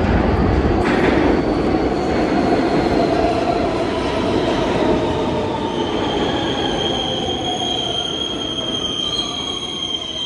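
R160B subway train pulling into a station: a loud rumble of wheels on rail that slowly dies down as the train slows, with high, steady squealing from the wheels from about six seconds in.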